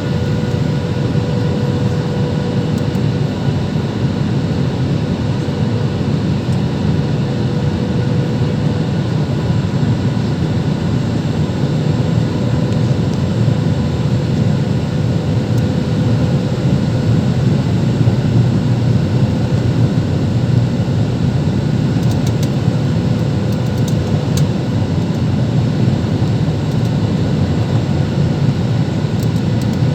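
Boeing jet airliner running steadily: an even, low rushing noise with a faint steady hum over it.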